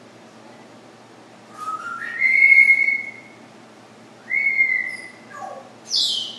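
Pet parrot whistling: two clear notes, each sliding up and then held, then a short falling whistle near the end.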